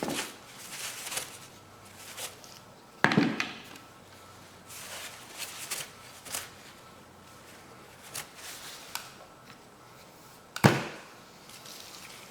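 Hands handling and wiping down lawnmower air-cleaner parts, with scattered rubbing and light clatter and two sharp knocks, one about three seconds in and one near the end.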